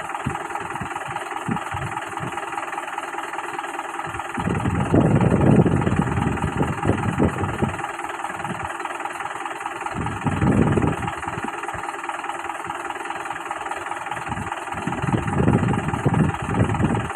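Mahindra 575 Bhoomiputra tractor's diesel engine running steadily, growing louder and rougher in three spells: about five seconds in, about ten seconds in, and near the end.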